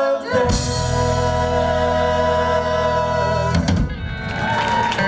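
A live rock and roll band holds a loud sustained closing chord, then drum hits break it off about three and a half seconds in, followed by another held note at the very end of the song.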